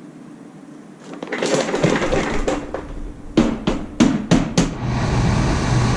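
Rustling handling noise, then five sharp knocks in quick succession, after which a vehicle engine settles into a steady idle near the end.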